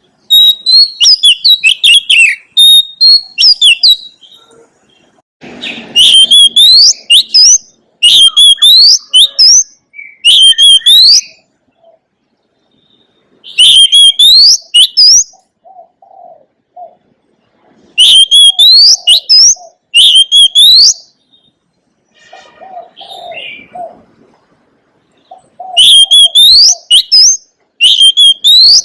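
Oriental magpie-robin singing loud, varied phrases of quick rising and falling whistled notes, delivered in bursts of one to three seconds with short pauses between. Softer low calls sound in some of the gaps in the second half.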